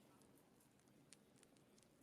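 Wood fire crackling faintly in a fireplace: a soft low hiss with a few sharp pops, the clearest at the start and about a second in.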